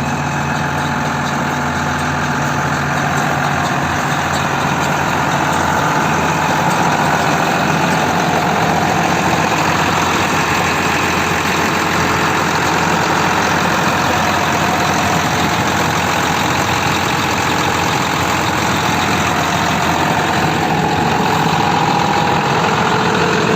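YTO-1304 tractor's diesel engine running steadily, getting a little louder over the first several seconds.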